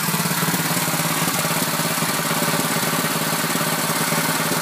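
Predator single-cylinder overhead-valve small engine running steadily with a fast, even firing beat.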